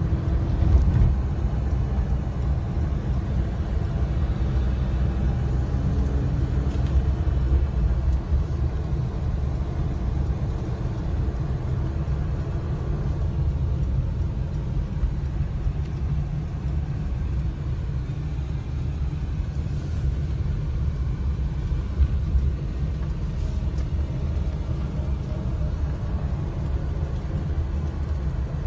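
Sandstorm wind gusting against the microphone: a loud, steady low rumble that swells and eases slightly.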